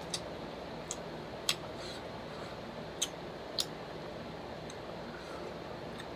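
A person chewing fried chicken with mouth closed: a handful of short, faint clicks from the mouth, spaced irregularly over a steady low hiss.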